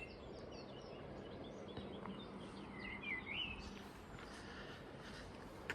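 Faint songbirds singing, short chirps and whistled phrases, a little louder about three seconds in, over a steady outdoor background hiss.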